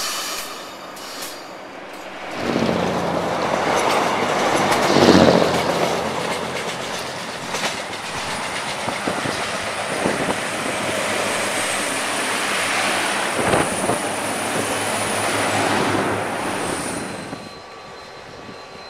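Diesel multiple unit passing close by: engine and wheels running loud, swelling to a peak about five seconds in, with a thin high steady whine through much of the pass. It drops away abruptly near the end.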